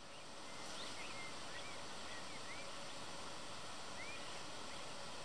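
Steady hiss of open-air background with a few faint, short bird chirps in the first half and one more near four seconds.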